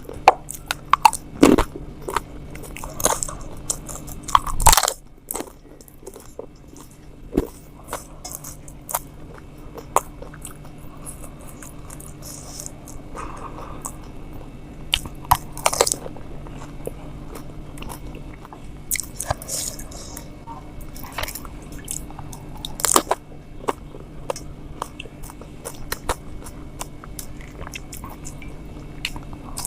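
Close-up crunching and chewing of pani puri, with crisp hollow puris filled with spiced water being bitten and chewed. The crunches come irregularly, several a second at times, and the louder bites fall in the first few seconds and again about a third and three quarters of the way through.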